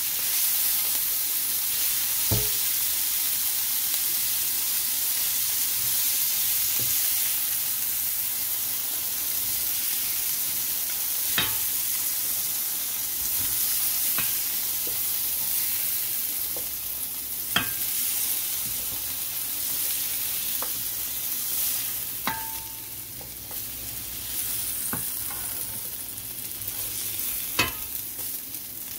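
Food sizzling in a frying pan while it is stirred, with a few sharp clicks of a utensil against the pan. The sizzle eases slightly toward the end.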